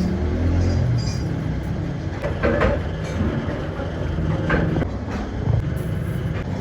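A machine running with a steady low hum, with a few knocks about two and a half, four and a half and five and a half seconds in.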